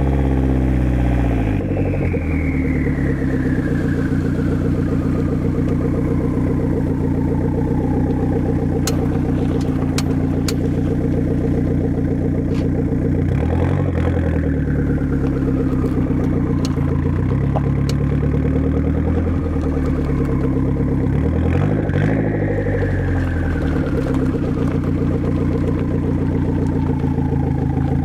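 1990 Saab 900 Turbo's turbocharged four-cylinder engine running through a straight-pipe exhaust while being driven. The engine note drops away about two seconds in and falls slowly, then rises and falls again twice, with a few sharp clicks in the middle.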